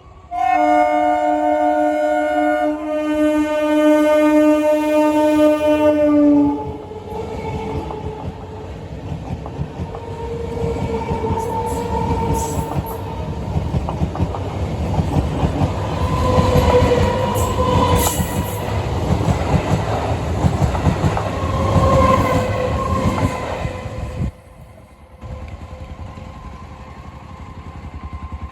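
Indian Railways train horn sounding one long blast of about six seconds, its pitch shifting a little partway through, followed by the steady rumble and clatter of the train running on the rails, which drops briefly near the end.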